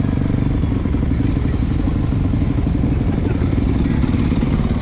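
Motocross bike engine running steadily at low revs, a loud, even low rumble.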